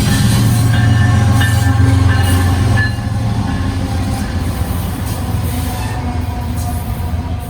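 Union Pacific double-stack intermodal freight train passing close by. A loud, deep diesel locomotive drone drops away about three seconds in, leaving the rumble of the cars rolling past with thin wheel squeals.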